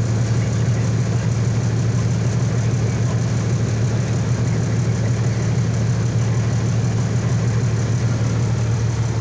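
Semi truck's diesel engine idling with its cooling fan running during a regeneration cycle: a loud, steady hum heard from inside the cab.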